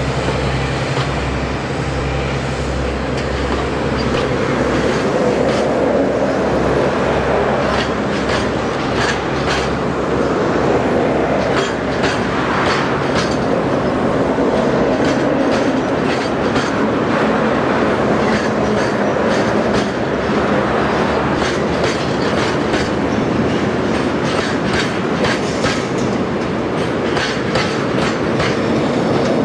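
Freight train of Taki 1000 tank wagons rolling past, wheels clattering rhythmically over the rail joints, the clicks coming thicker after several seconds. A low drone fades out in the first few seconds.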